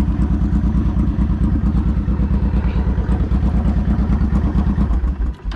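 Motorcycle engine running steadily with an even pulsing exhaust beat, then shut off shortly before the end.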